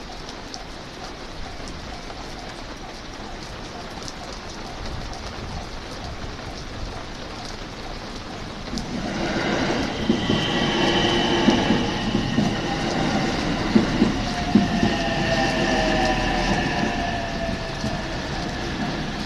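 JR West 225 series 5100 subseries electric train coming in and slowing to a stop. It grows loud about nine seconds in, with wheels clicking over rail joints and a whine that falls in pitch as it brakes.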